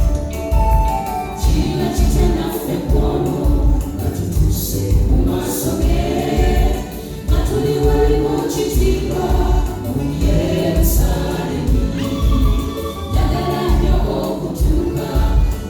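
Choir singing gospel music over a band with a steady, heavy bass beat.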